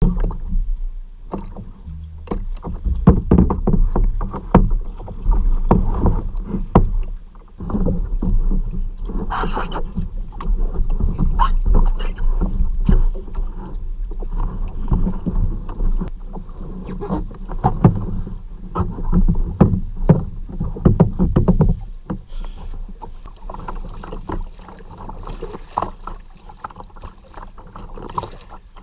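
Water splashing and sloshing around a kayak, over a heavy low rumble on the microphone. It is louder and busier for the first twenty-odd seconds, then calmer.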